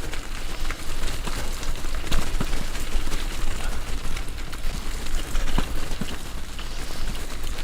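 Steady rumbling noise of a bicycle being ridden over a boggy off-road trail, with a few sharp knocks and rattles.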